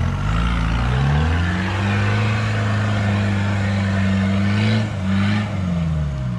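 Land Rover engine revving up under load as it pulls through deep mud ruts. It holds a steady pitch for a few seconds, drops off briefly and picks up again, then eases off near the end.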